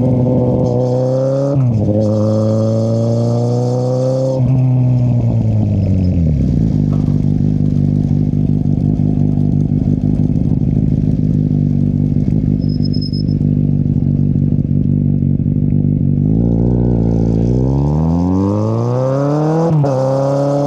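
2013 Kawasaki Z800's 806 cc inline-four engine through an Akrapovic exhaust with its dB killer removed. It revs up through a gear change, then the throttle closes and the revs fall to a low, steady engine speed for about ten seconds. Near the end it accelerates again, with one upshift.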